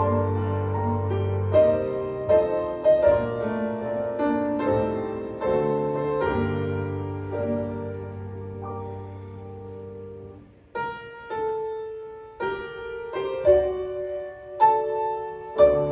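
Two grand pianos playing a slow piece in sustained chords. About ten seconds in the music dies away almost to nothing, then fresh chords are struck and the playing goes on.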